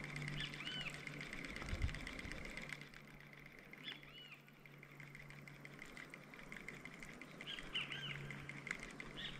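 Birds calling faintly outdoors: short arching chirps a few times, over a faint steady high tone and a low hum.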